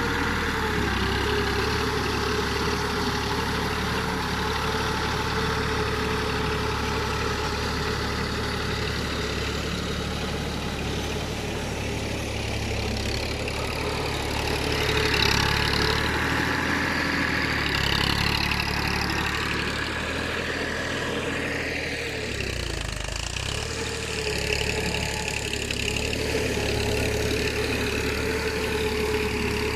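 Tafe 45 DI tractor's diesel engine running steadily, growing louder for a few seconds around the middle of the stretch as it works harder, then settling back.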